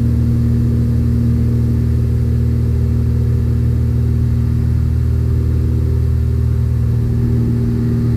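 Cessna 182F's six-cylinder Continental O-470 engine and constant-speed propeller droning steadily inside the cockpit at climb power, about 2400 RPM.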